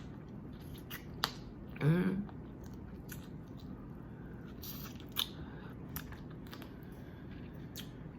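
Eating boiled crawfish: scattered sharp cracks and clicks of shells being broken and picked, with chewing, and a short hum-like vocal sound about two seconds in.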